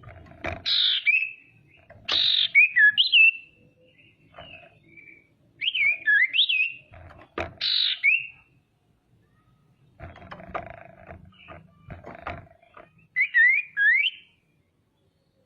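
Female common iora (sirtu or cipoh) calling in several bouts: harsh, raspy notes followed by short slurred whistles, with pauses between bouts. A few sharp clicks come between about ten and twelve seconds in.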